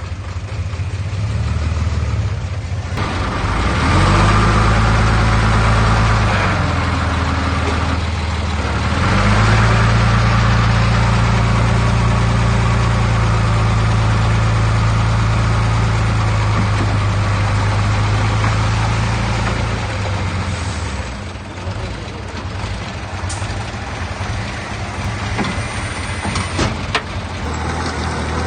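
Heavy diesel engine of earthmoving machinery working under load: it revs up about three seconds in and again about nine seconds in, holds high, then drops back toward idle around twenty seconds in, with a few sharp knocks near the end.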